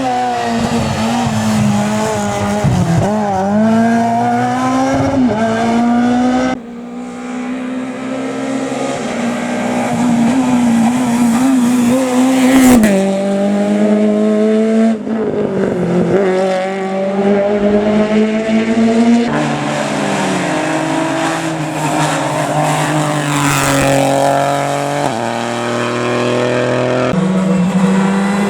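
Rally cars at speed on a special stage: engines revving hard and climbing and falling through the gears as they pass. Several cars are heard one after another, with abrupt changes between them.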